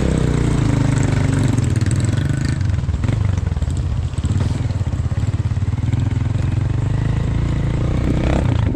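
A small engine running steadily, with a brief rise in pitch near the end.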